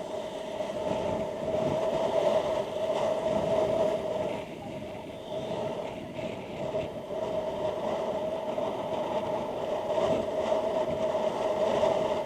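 Motorcycle riding noise through a helmet intercom microphone: a steady engine drone with rushing air and road noise, swelling and easing slightly.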